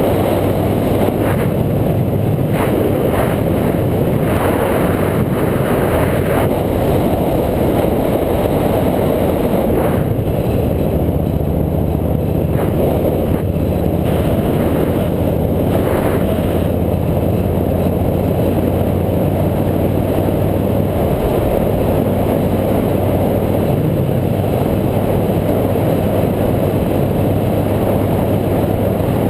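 Motorcycle engine running at a steady cruising pace, with a heavy rush of riding wind over the onboard camera microphone; the engine note shifts slightly about two-thirds of the way through.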